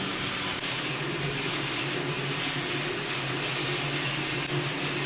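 Steam locomotive No. 28, a 1922 Baldwin 2-8-0, standing while it is fired up and raising steam: a steady hiss over a low, even roar.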